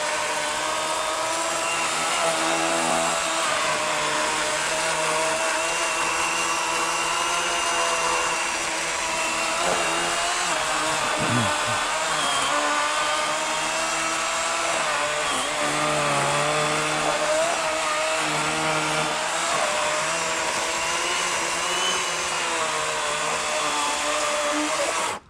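Electric battery chainsaw (40-volt Worx WG384 with an 18-inch Oregon bar) cutting through a fallen poplar log, a steady motor and chain whine whose pitch dips slightly as the blade bites, cutting off suddenly at the end.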